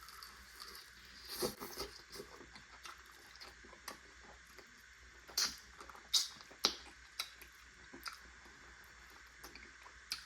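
A person eating, close to the microphone: chewing with scattered wet mouth clicks and smacks at irregular intervals, a few louder ones around the middle.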